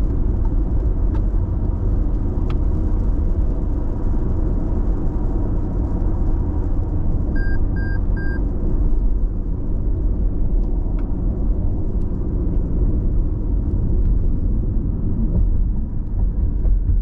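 Road noise inside a car cabin at expressway speed: a steady low rumble of tyres and engine. About seven seconds in come three short, quick electronic beeps.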